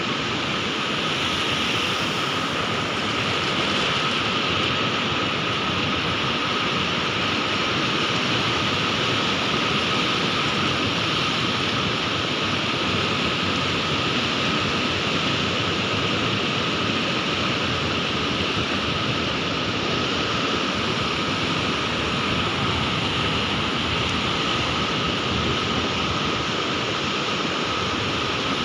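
Sea waves making a steady, even rushing hiss with no separate breakers standing out, and a faint steady tone underneath.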